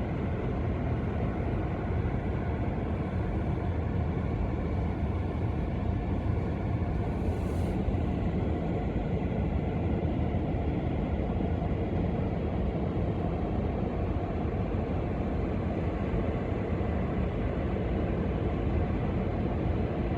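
Gale-force wind rumbling steadily on the microphone, mixed with the wash of lake waves breaking on the shore.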